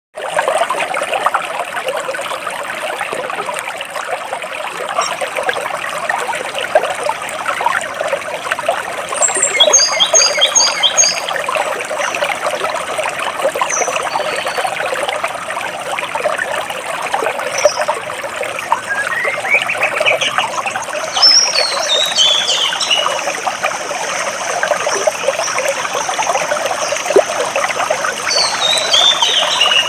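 Water flowing and trickling between large rocks, a steady rushing hiss, with birds chirping over it: a run of short high notes about ten seconds in, a rising call around twenty seconds, and quick falling runs of notes just after and again near the end.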